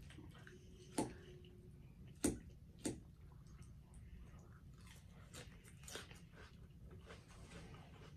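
Close-miked eating: mouths chewing and smacking on pasta and salad, with a few sharp clicks about one, two and three seconds in.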